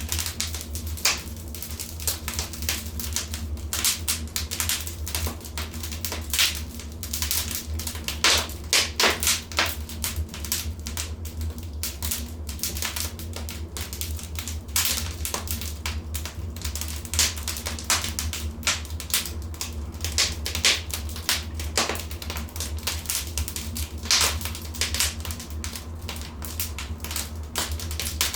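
Wood fire crackling in a fireplace: a continuous run of irregular snaps and pops, some louder than others, over a steady low hum.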